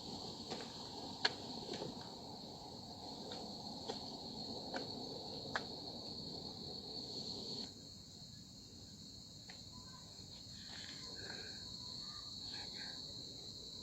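Steady high-pitched chorus of insects, likely crickets, with a few sharp ticks and a low rustle over the first half that stop about eight seconds in.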